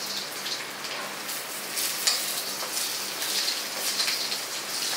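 Washed toor dal sizzling and crackling in hot oil in an iron kadai, the crackles growing denser a little over a second in. The water still on the freshly washed lentils makes the oil spit.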